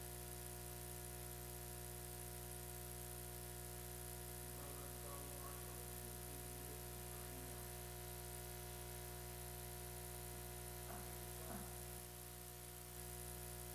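Steady electrical hum and buzz on the audio feed, many unchanging tones held without a break. Faint, indistinct voices come through it about a third of the way in and again near the end.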